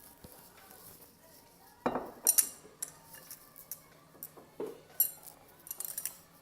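Eating utensils clinking and knocking against a bowl: a few scattered sharp clinks with a high ring, mixed with duller knocks, starting about two seconds in.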